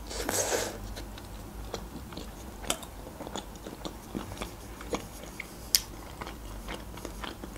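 A bite into a slice of pizza, then chewing with many short, scattered mouth clicks.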